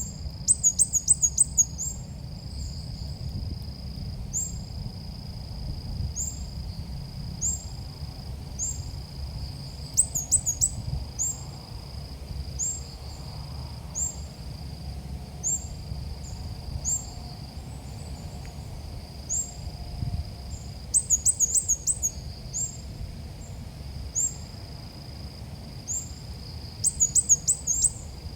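Ốc mít bird call played as a trapping lure: short, high, thin chirps repeating steadily, broken four times by louder bursts of rapid trilled notes. A steady high whine and a low rumble run underneath.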